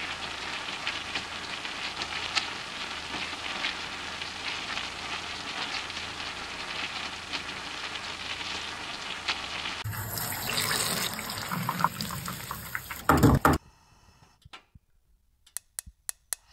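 Mutton and masala sizzling and crackling in a large aluminium kadai as it is stirred. About ten seconds in, water is poured in from a pot and rushes in, loudest just before it stops; then it goes almost quiet apart from a few sharp clicks near the end.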